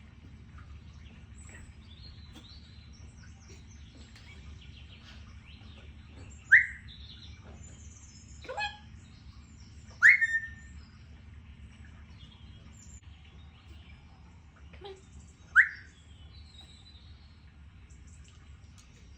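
Congo African grey parrot whistling: three short, sharp whistles that swoop upward, spaced several seconds apart, with a falling call between the first two and soft chirps in between. A steady low hum runs underneath.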